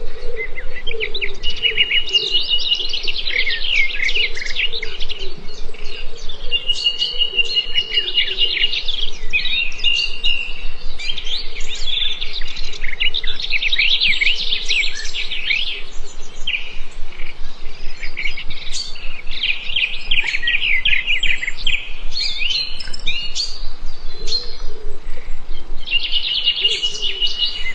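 Several birds chirping and trilling continuously, their rapid calls overlapping, with a high held note that recurs every few seconds.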